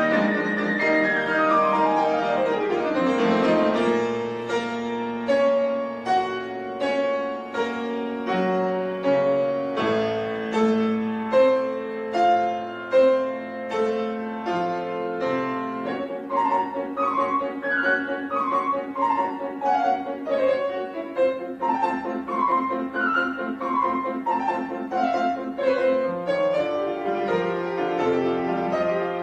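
Piano music: a quick descending run of notes about a second in, then chords and, in the second half, repeated rising and falling broken-chord figures.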